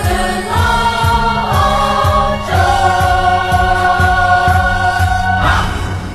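A group of voices singing long held notes over backing music with a steady beat; the music ends about five and a half seconds in.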